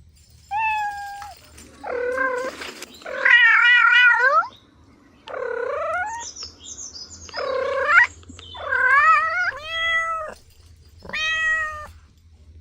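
A cat meowing repeatedly: about eight loud, separate meows, some drawn out with a wavering pitch.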